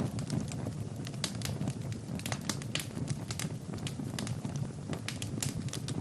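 Fire burning in a fireplace, crackling with many sharp, irregular pops over a steady low rumble.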